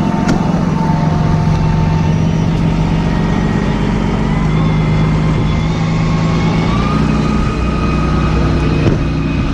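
Heavy truck engine idling steadily and loudly.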